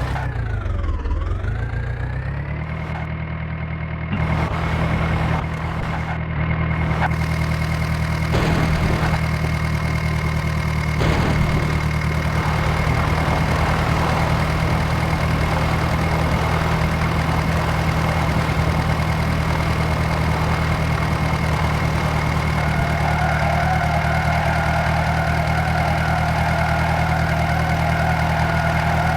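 Mahindra Arjun tractor engine running, its pitch dipping and climbing over the first couple of seconds, then holding steady at a constant speed.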